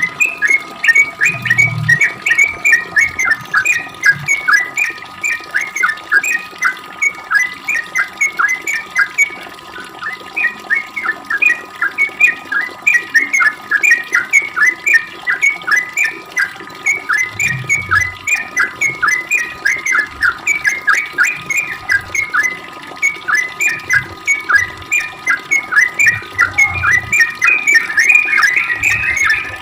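Yellow-vented bulbul (trucuk) singing a long, unbroken run of short chirping notes, about three to four a second. This is the rapid 'ropel' song used as a lure to make other trucuk answer. A few low thumps sound underneath near the start and again later on.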